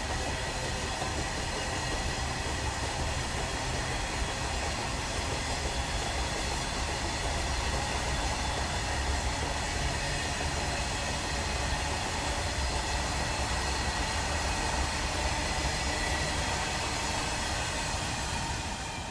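A train running steadily: a continuous rumble of wheels on rails, with a few steady high tones over it.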